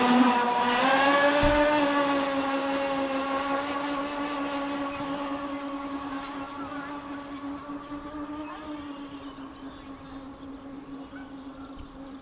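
Twin electric motors of a fast RC catamaran speedboat whining at high speed, one steady high whine with many overtones that climbs in pitch right at the start and then holds, fading steadily as the boat runs away.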